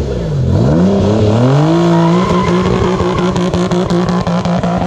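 Nissan Z car's V6 engine, with an aftermarket exhaust, being revved hard. After a quick blip, the revs climb over about a second and a half and are held steady at high rpm.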